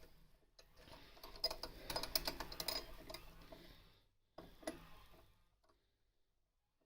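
Light metallic clicks and rattles of small hand tools being handled, in a dense run of ticks for about three seconds, then a short clatter a second later.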